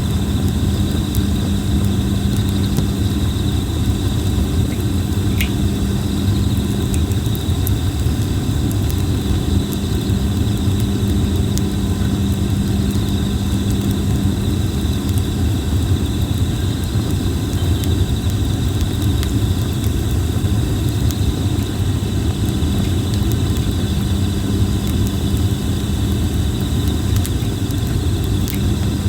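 Red plum (kōbai) wood campfire burning in a fire pit: a steady low rumble with scattered small sharp crackles and pops, and a steady high insect chorus.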